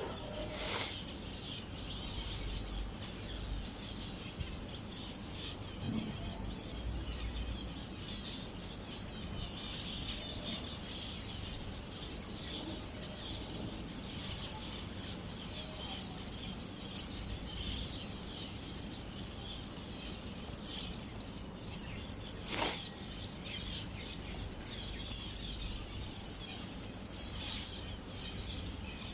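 A flock of small aviary finches chirping in a constant, overlapping high-pitched chatter, with a single knock about three-quarters of the way through.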